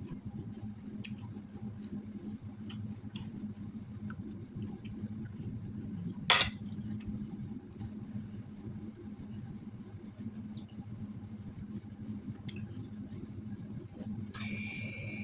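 A single sharp clink of tableware about six seconds in, over a steady low background hum with faint scattered light ticks. Shortly before the end, a steady high pitched sound with overtones comes in.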